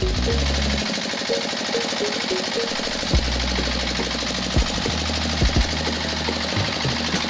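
A small motor running steadily with a fast, even buzz, under background music with a melody and bass line; a few sharp knocks come near the middle.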